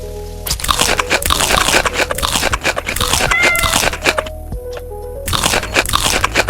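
Close-miked crunching and chewing of food, many rapid crisp bites and chews, over light background music with short plucked notes. A brief high pitched tone sounds about three seconds in.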